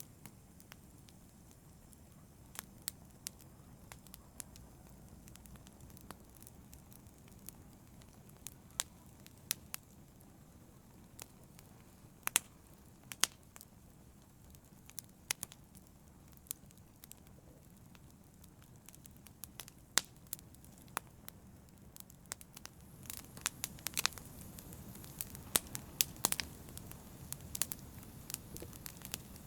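Wood fire in a fireplace crackling: a low steady rumble of burning with scattered sharp pops and snaps, which come thicker near the end.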